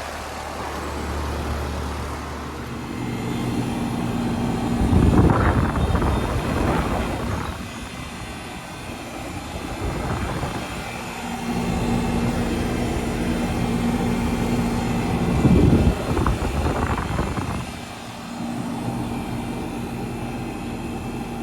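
Residential heat pump outdoor units running in cool mode: a steady compressor hum under the rushing whoosh of the condenser fan. There are two swells of louder rushing noise, about five and fifteen seconds in.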